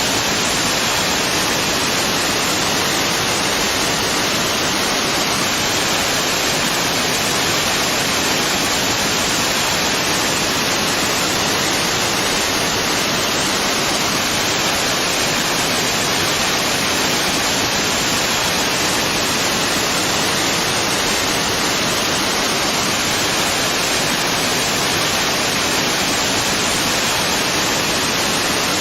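Waterfall: a steady, unbroken rush of falling water, even throughout and strongest in the higher range.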